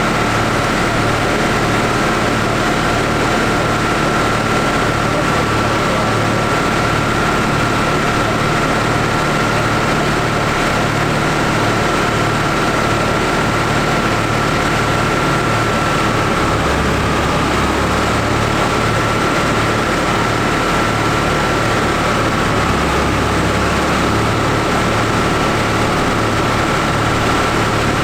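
John Deere 7800 tractor's six-cylinder diesel engine running steadily under load on a PTO dynamometer, with a constant high whine over the engine note. The low rumble changes briefly twice, about two-thirds of the way through and again near the end.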